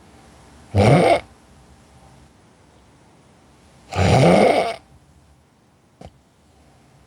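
A person snoring: two loud snores about three seconds apart, each rising in pitch, the second one longer. There is a faint click near the end.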